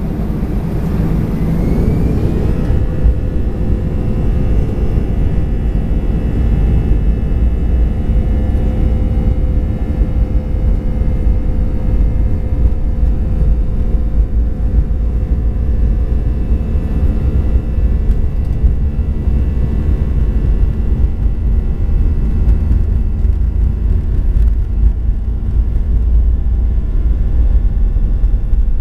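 Airbus A320's turbofan engines heard from the cabin at take-off: a whine rises in pitch over the first two seconds or so as the engines spool up, then they run at steady thrust with humming tones over a heavy low rumble.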